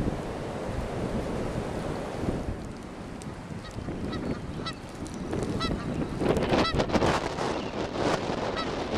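Blizzard wind rushing over the microphone. From about three and a half seconds in, a series of short, high honk-like calls comes at uneven intervals.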